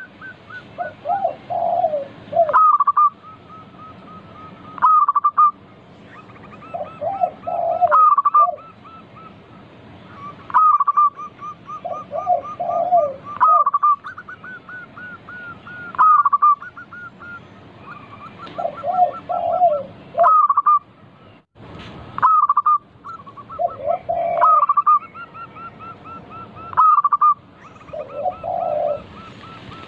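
Zebra dove song: a cooing phrase repeated roughly every two to three seconds, each a strong note followed by a lower warbling run, with fainter quick notes in between.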